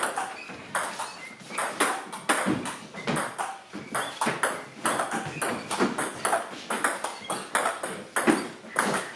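A racket-ball rally: a ball struck again and again by rackets, with sharp, irregular impacts several times a second.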